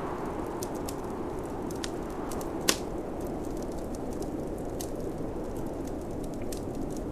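Wood fire in a fireplace crackling, with scattered sharp pops and one louder snap a little before the middle, over the steady rushing noise of snowstorm wind.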